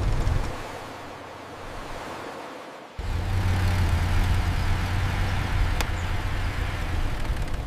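A camper van's engine running steadily with a low hum as it drives. The sound drops away after about half a second and then cuts back in abruptly about three seconds in.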